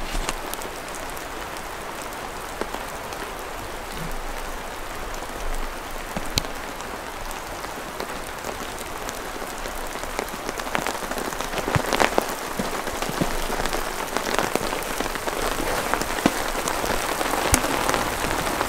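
Steady rain falling: an even hiss with scattered individual drops ticking, growing a little louder in the second half.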